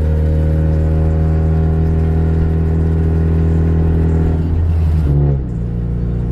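Mazda Miata's four-cylinder engine and exhaust heard from inside the cabin while driving, holding steady revs. About five seconds in the engine note changes and settles at a lower pitch.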